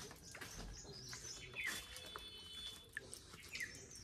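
Faint bird chirps: a few short high calls scattered through, with a thin held whistle near the middle.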